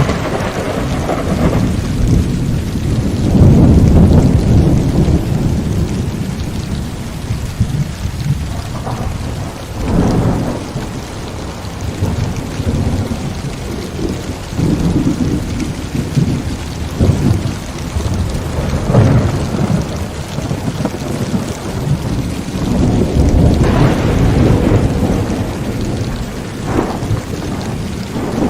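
Heavy rain falling steadily through a thunderstorm, with rolling thunder rumbling again and again; the biggest roll comes a few seconds in, and sharper claps break out around the middle and near the end.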